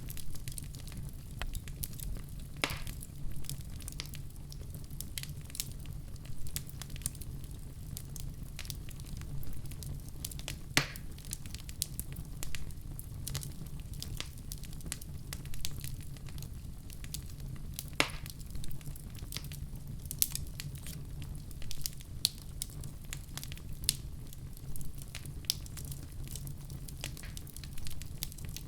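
Wood fire burning in a fireplace: a steady low rumble of the flames with frequent small crackles and a few sharper pops about 3, 11 and 18 seconds in.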